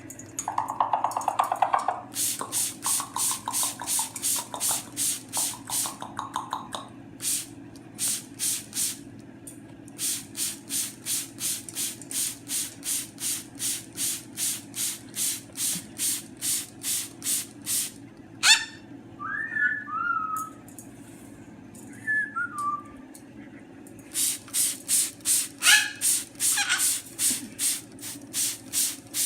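A fast, even train of short hissing ticks, about four a second, that stops and starts, with a few short whistled chirps from a Moluccan cockatoo in the second half.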